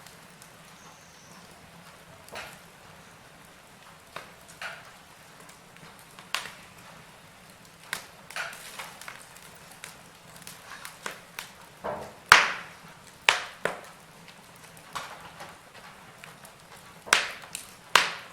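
Wood fire burning in a fireplace: a low steady hiss broken by irregular crackles and pops, with sharper snaps about 12 and 17 to 18 seconds in.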